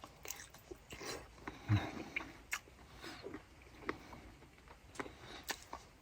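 Close-up mouth sounds of a person eating or drinking, with scattered small clicks and a short low sound falling in pitch a little before the two-second mark.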